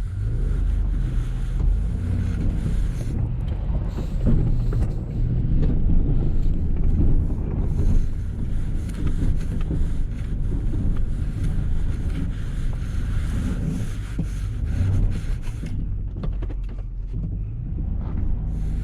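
Snow-plow pickup truck working in four-wheel drive, heard from inside the cab: a steady low engine and drivetrain rumble with scattered short rattles.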